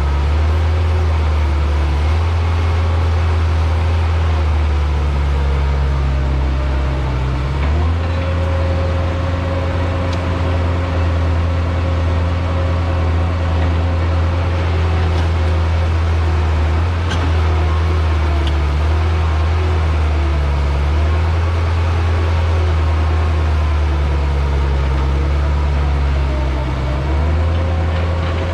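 Heavy diesel equipment engine running steadily under work, with its engine speed shifting about eight seconds in and again near the end.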